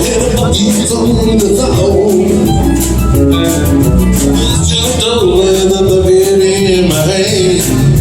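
Live band playing an instrumental passage between verses: drums, bass and guitar, with a held, wavering lead melody line.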